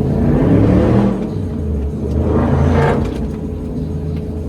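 Two vehicles driving past on the street, one after the other: the first swells and fades about a second in, the second peaks near the three-second mark.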